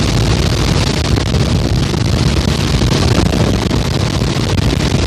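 Helicopter running steadily: a loud, even drone of engine and rotor with a low hum underneath.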